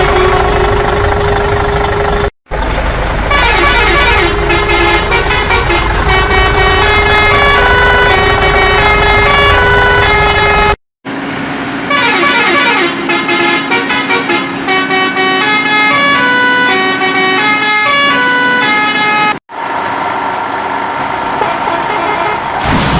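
Cartoon vehicle sound effects: a horn sounding a tune of stepped notes over a low engine rumble, cut off abruptly three times and restarting.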